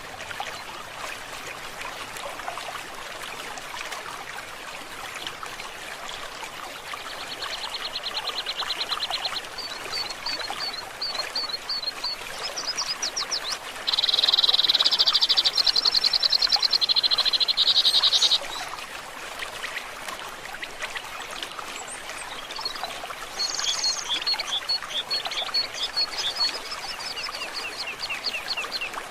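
Rapid pulsing, trilling animal calls, several in turn with the loudest lasting about four seconds near the middle, over a steady water-like hiss of forest ambience.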